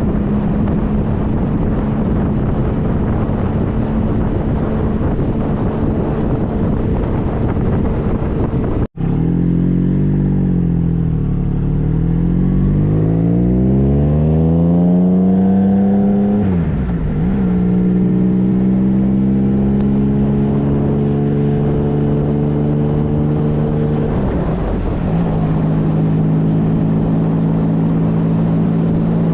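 Triumph Trophy SE's 1215 cc inline-three engine under way, with wind rushing over the microphone at first. After a brief dropout about nine seconds in, the engine note rises as the bike accelerates, drops at an upshift, holds steady, and drops again at a second upshift.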